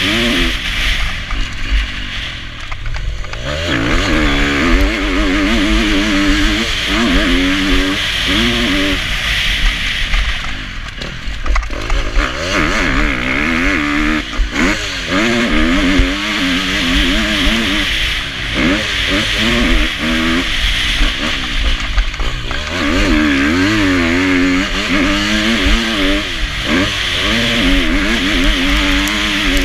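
Motocross bike engine being ridden hard around a dirt track: the revs rise and fall over and over as the throttle is opened and shut through corners and jumps, over a steady rush of noise. The engine eases off briefly twice, early on and around a third of the way in.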